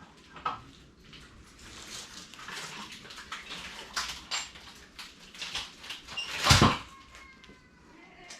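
Metal clatter and scraping of tools and parts being worked loose from an engine. About six and a half seconds in comes one loud clank, followed by a faint fading ring.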